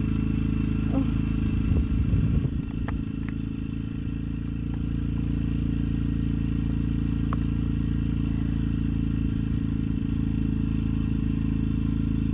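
Yamaha TTR 125 LE's single-cylinder four-stroke engine idling steadily, with a brief clatter of handling noise about two seconds in. The rider thinks it sounds like a chainsaw and guesses at leaves or a hornet nest inside.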